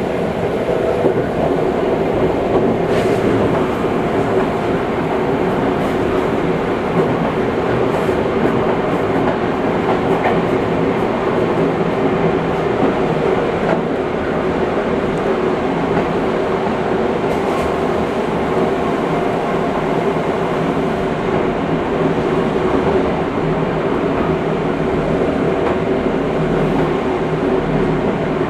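Seibu 6000 series electric train running at a steady pace, heard from inside a passenger car: continuous rolling and motor noise with a steady hum, broken by a few sharp clicks from rail joints.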